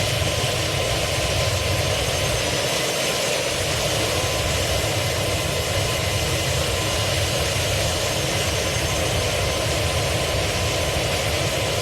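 Jet airliner after touchdown: a steady roar of the engines and a low rumble as the plane rolls along the runway.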